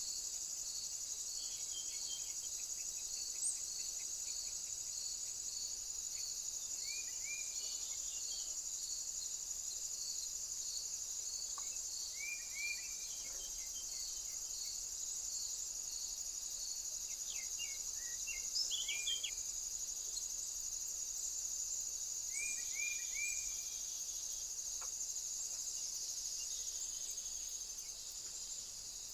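Insects chirring steadily and high-pitched, with a cricket-like chirp pulsing about twice a second for the first ten seconds or so. Over it come short bird chirps in four brief groups.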